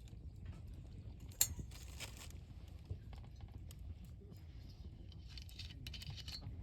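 Wood campfire crackling: scattered small pops and snaps, with one sharp pop about one and a half seconds in.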